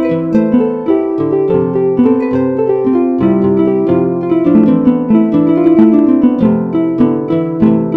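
Harp music: many plucked notes and chords in a flowing, steady pattern, each note ringing and fading.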